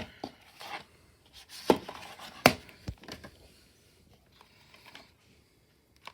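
Plastic DVD case being handled: a few sharp clicks and knocks with some rubbing, mostly in the first three seconds.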